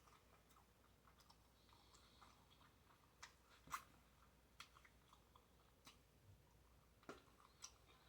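Faint chewing of a bacon cheeseburger, with scattered wet mouth clicks and one sharper click a little before four seconds in.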